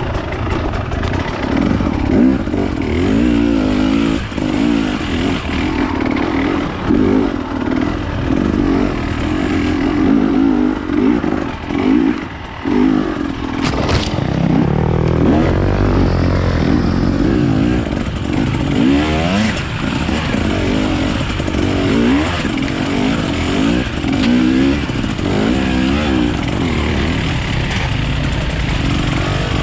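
Off-road enduro motorcycle engine being ridden, its pitch rising and falling continually with the throttle. There is one sharp click about fourteen seconds in.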